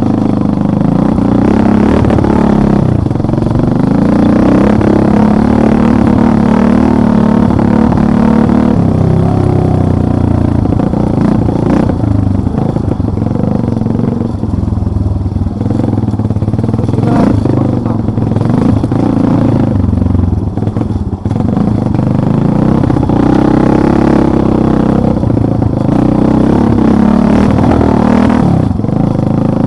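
Motorcycle engine running while ridden over forest tracks, its pitch rising and falling with the throttle, with a few short knocks along the way.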